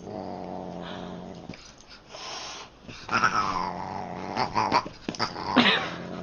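A pet growling steadily for about a second and a half, then giving a few short cries, one of them sliding down in pitch.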